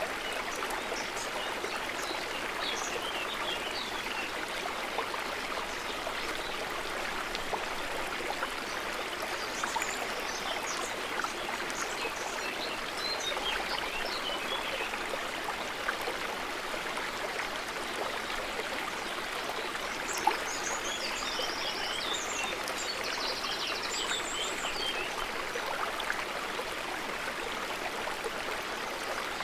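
River water running steadily in an even rushing flow, with faint high chirps now and then.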